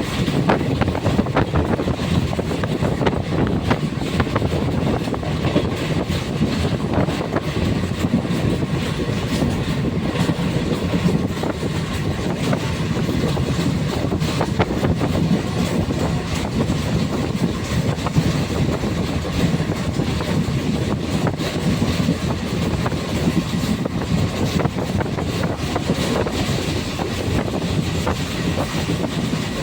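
A passenger train running along the track: a steady rumble with frequent sharp clicks from the wheels and carriages.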